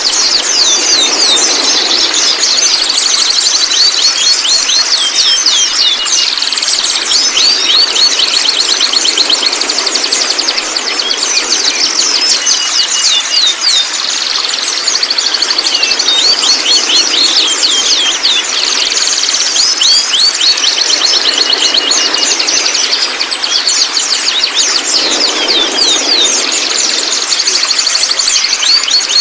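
Juvenile white-rumped shama (trotol) chattering: a continuous, rapid stream of short, high notes, each falling in pitch.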